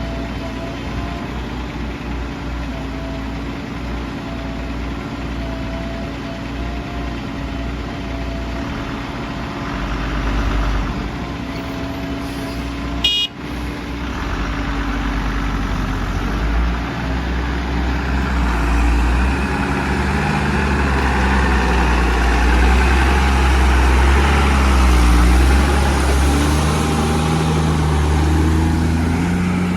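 Heavy diesel machinery engine running steadily at first, then working harder and louder from about halfway through, with the pitch dipping and rising again near the end; a sharp click about 13 seconds in.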